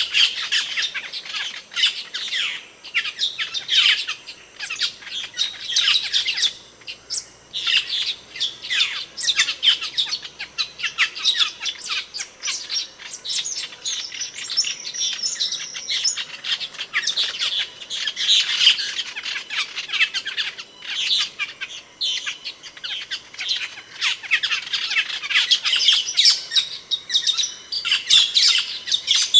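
Asian glossy starling (cucak keling) calling: a dense, continuous run of sharp, high-pitched chirps and squawks, with a brief lull about seven seconds in.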